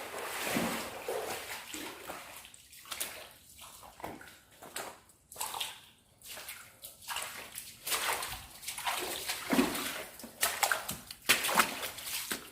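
Water sloshing and splashing in irregular bursts, with a cluster of sharper splashes near the end.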